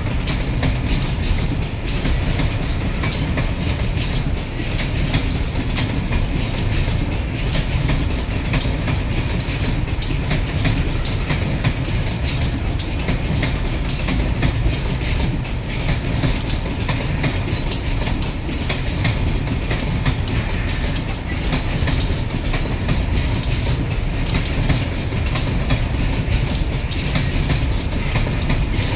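Railway train rolling past at steady speed: a continuous rumble with rapid, repeated clicking of wheels over the rail joints.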